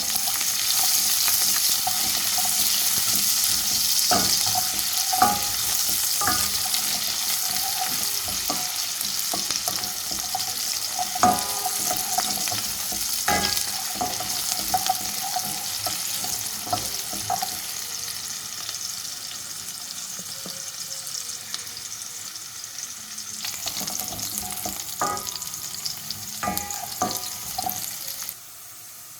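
Chopped onion sizzling in hot oil with mustard seeds as it browns in a metal cooking pot, with a spoon stirring and knocking against the pot many times, each knock ringing briefly. The sizzle slowly dies down and drops off sharply near the end.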